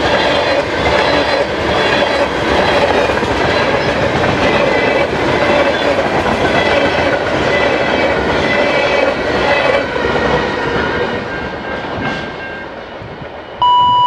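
Freight cars rolling past on steel rails, the wheels clattering with a steady metallic ringing tone, fading away from about ten seconds in as the tail of the train goes by. Just before the end, a short, loud electronic beep.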